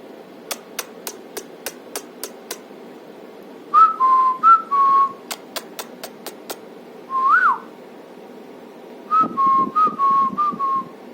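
Clear whistled notes in short groups: a run of alternating higher and lower notes, a single note that slides up and drops, then a longer run of stepped notes. Between the groups come sharp ticks, about three a second.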